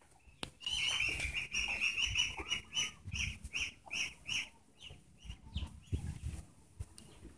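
A bird calling: one long held high note, then a string of short repeated notes, about three a second, that fade away.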